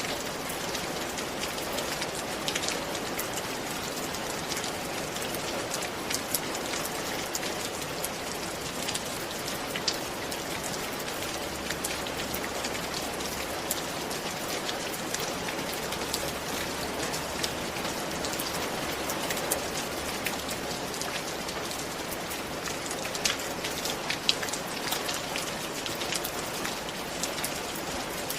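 Steady rain falling, an even hiss with scattered louder drop ticks on a surface.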